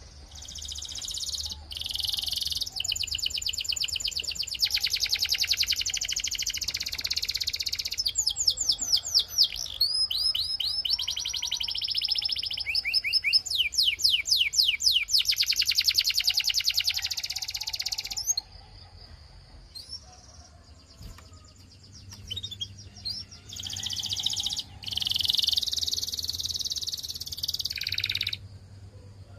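Canary singing: long rolling trills of rapidly repeated high notes, with stretches of quick sweeping notes in the middle, then a pause of a few seconds and another trill near the end.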